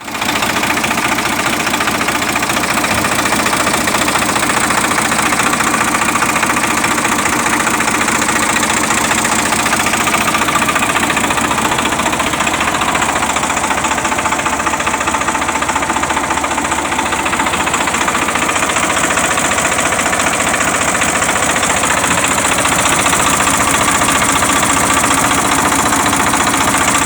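Swaraj 960 FE tractor's diesel engine running steadily at an even idle.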